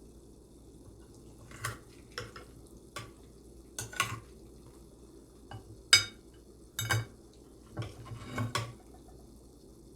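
A serving utensil clinking and scraping against dishes as manicotti is dished up: a run of separate sharp clinks, some briefly ringing, the loudest about six seconds in.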